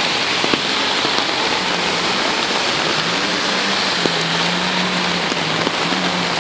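Heavy rain pouring down, a dense steady hiss with occasional sharp drop ticks, together with floodwater rushing along a street. A faint low drone joins from about a second and a half in.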